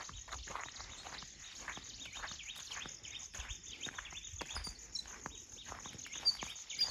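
Footsteps walking through forest undergrowth, a few steps a second, with a steady high insect hum and a few short bird chirps near the end.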